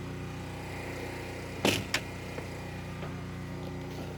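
Portable generator running with a steady hum, with two sharp knocks close together about a second and a half in.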